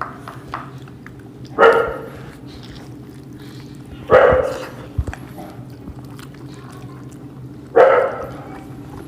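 A dog barking three times, single barks a few seconds apart, over a steady low hum.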